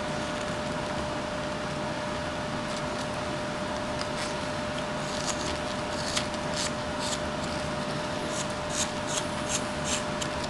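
Whittling knife slicing shavings from a butternut carving: a series of short, crisp cuts, most of them in the second half, over a steady background hum.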